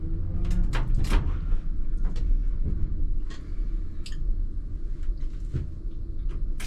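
ČKD Tatra T3R tram rolling slowly over depot track: a low running rumble and motor hum, with irregular sharp clicks and knocks as the wheels pass rail joints and points.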